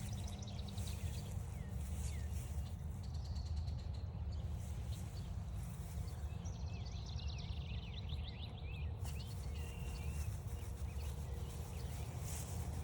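Several songbirds singing: quick high trills near the start and around three seconds in, a longer trill of falling notes around seven to eight seconds, then a short steady whistle. A steady low rumble runs underneath.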